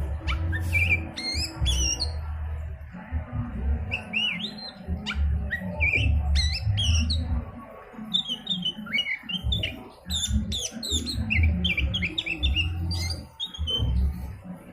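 Oriental magpie-robin song: a rapid run of varied whistles, chirps and short trills, over a low, uneven rumble.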